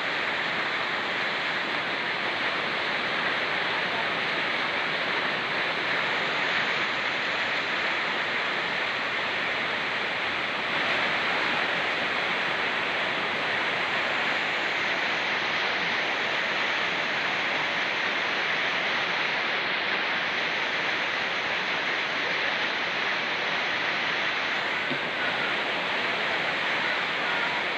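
Steady rain falling in forest together with a fast-flowing mountain stream, an unbroken hiss and rush of water.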